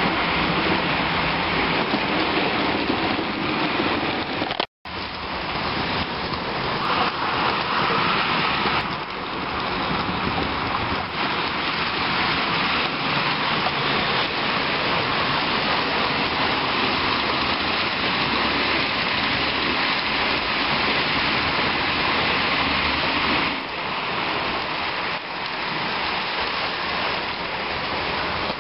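H0-scale model steam trains running on the track: a steady rushing rattle of wheels over the rails and the locomotive motor, cut off for an instant about five seconds in.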